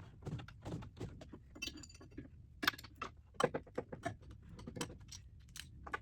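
Metal parts and hand tools clinking and knocking irregularly during hands-on reassembly of a baler gearbox drive line, with a brief metallic ring about two seconds in.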